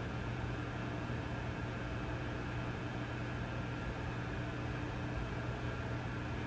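Vintage tube amplifier idling with no signal: a steady low mains hum with fainter higher hum tones over an even background hiss.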